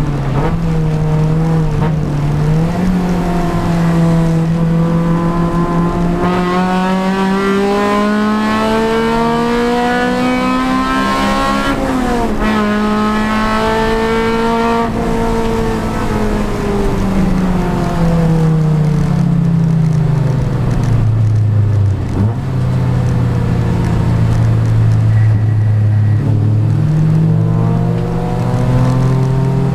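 Honda Civic Si race car's four-cylinder engine under racing load. The pitch climbs steadily through the middle, falls away to a low steady note around the twenty-second mark, and climbs again near the end.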